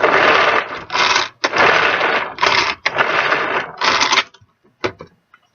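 Hand pull-cord food chopper being pulled about six times in quick succession, its blades spinning and carrot pieces rattling around the plastic bowl, as the carrots are chopped fine. Two short clicks follow near the end.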